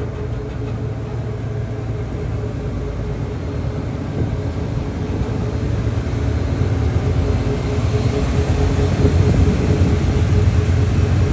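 Ferry's onboard engines and machinery running, a steady low drone with a constant hum, growing gradually louder through the second half.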